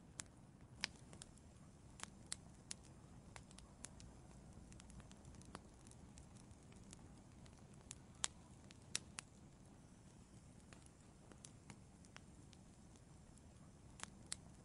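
Wood fire in an outdoor fireplace burning quietly: a soft low rush with irregular sharp crackles and pops, a few louder snaps scattered through.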